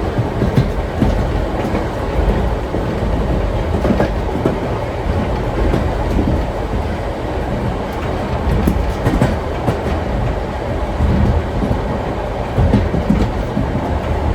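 Vintage railway carriage rolling along the track: a steady low rumble with irregular clacks and knocks of the wheels over the rails.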